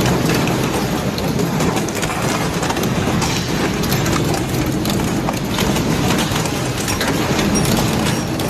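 Double-shaft shredder chewing through material, a continuous loud crunching and cracking with dense rapid knocks over the heavy grinding of the machine.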